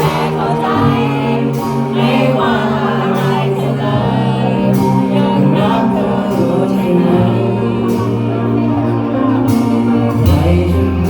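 Live rock band playing a song with singing over held bass notes and regular drum hits.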